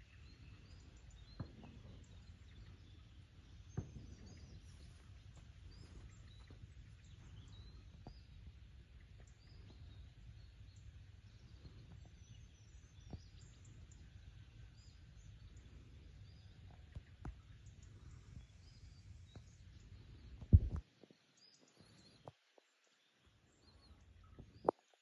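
Faint riverside ambience: small birds chirping and twittering over a low steady rumble, with scattered light clicks. About three quarters of the way through comes a sharp thump, the loudest sound, after which the rumble stops and it goes much quieter; one more click near the end.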